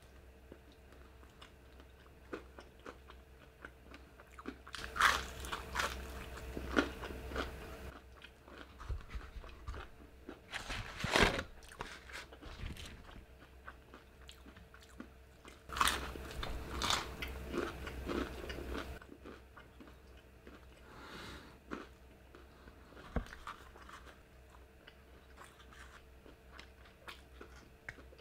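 Biting and chewing crispy fried chicken: several bouts of crunchy bites with quieter chewing between them, over a faint steady hum.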